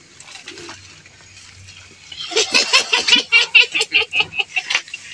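A person laughing in a rapid, loud run of short 'ha-ha' pulses, beginning about two seconds in after a quiet start.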